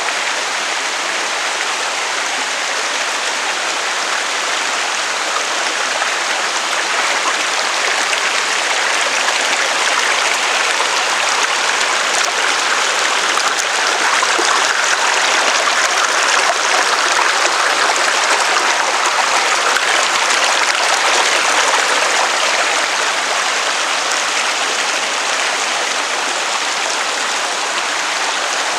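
Rushing water of a waterfall: a loud, steady wash of falling water that swells slightly in the middle.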